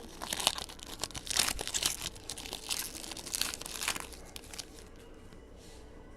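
Trading-card pack wrapper being torn open and crinkled, a run of crackling and rustling that dies down after about four and a half seconds.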